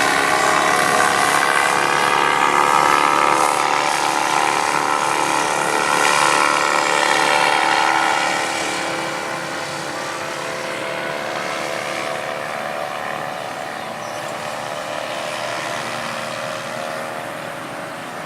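Radio-controlled model aircraft's motor and propeller running steadily with a high whine. It is louder for about the first eight seconds, then quieter.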